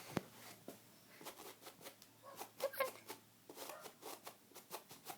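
Faint, irregular light clicks, a few a second, of a young eclectus parrot's claws tapping on the floor as it walks. A brief faint vocal sound about halfway through.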